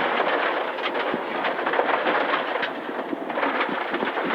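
Inside a rally car on a loose, slippery stage road: a dense clatter of gravel and stones hitting the underbody, with many sharp pings over the tyre and road noise.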